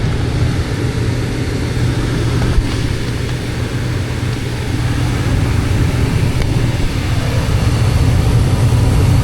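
Gas furnace running after its gas valve was replaced: a steady fan drone with a constant low hum, and a single brief click about two and a half seconds in.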